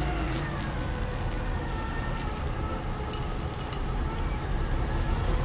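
Low, steady vehicle engine rumble with a faint whine that falls in pitch over the first couple of seconds.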